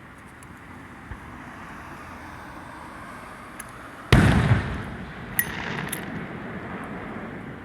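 Aerial firework shell bursting with one loud boom about four seconds in, followed by a couple of sharp crackles.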